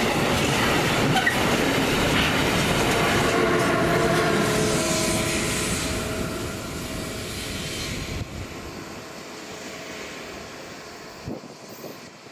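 A train running past on the rails, with wheel-on-rail rumble and some squealing tones, then dying away over the last few seconds. A short knock sounds near the end.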